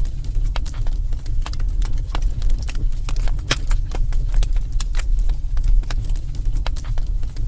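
Wood fire crackling in a fireplace: irregular pops and snaps over a steady low rumble.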